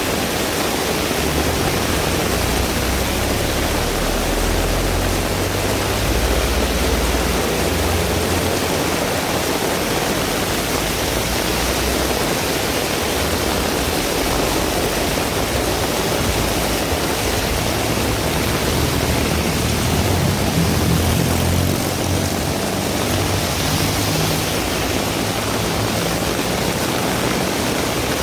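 Heavy rain pouring steadily. A low rumble swells under it twice, a few seconds in and again about two-thirds of the way through.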